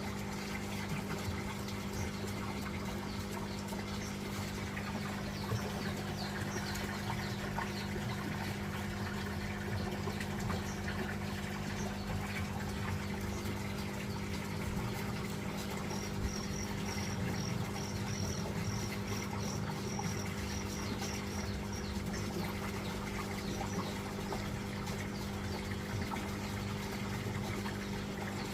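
Steady hum of a small water pump with running water. About sixteen seconds in, a small bird gives a run of short, high chirps, about two a second, for several seconds.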